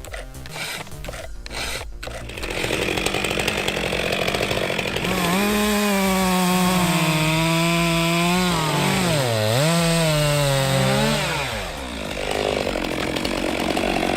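Two-stroke chainsaw running at full throttle through a large tree trunk, its pitch sagging as the chain bites into the cut and rising again, after a few sharp knocks at the start.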